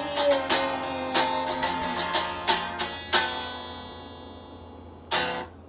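Semi-acoustic guitar played unplugged, chords strummed in a steady rhythm, then one chord left ringing and fading away for about two seconds, with a single short strum near the end.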